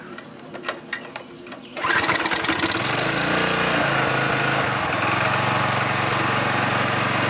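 A few sharp clicks, then about two seconds in a pressure washer's small four-stroke engine fires and catches. It speeds up over the next couple of seconds and settles into steady running. The engine has sat unused for years and its carburetor has just been cleaned.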